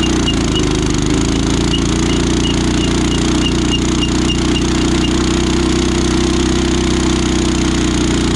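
Small single-cylinder minibike engine running at a steady raised speed, then dropping off sharply just after the end, as the brakes that are locking up are tried. Faint high ticks repeat about three times a second during the first few seconds.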